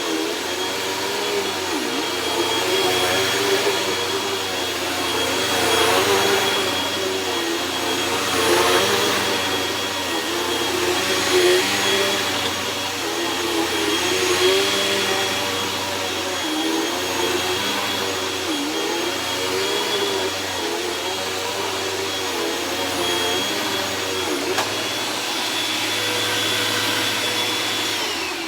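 Hoover Rewind bagless upright vacuum cleaner running, a steady motor whine with rushing air that swells and eases as it is used, its filters and clogged hose freshly cleaned out. Near the end it is switched off and the whine falls away.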